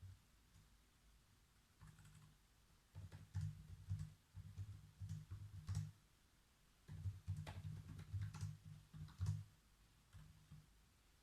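Typing on a computer keyboard in two short runs of quick keystrokes, with a few single taps before and after, each key giving a soft low thud and a click.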